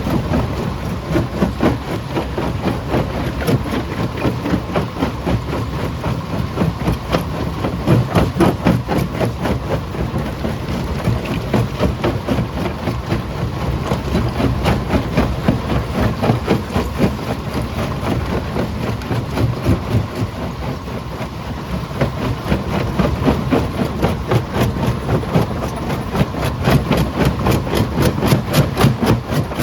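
Stone jaw crusher running under load: a steady low rumble with a dense, uneven stream of knocks and cracks as rock is broken in the jaws.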